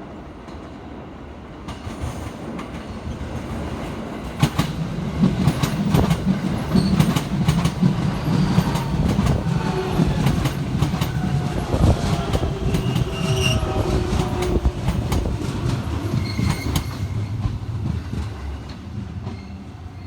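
A train running past close by, building up, rumbling loudest for about twelve seconds, then fading. Its wheels clack sharply over the rail joints, with thin whining tones above the rumble.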